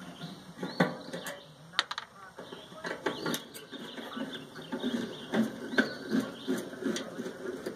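Sharp, irregular clicks and knocks of hand tools working on the microwave's sheet-metal case while the magnetron is being unbolted.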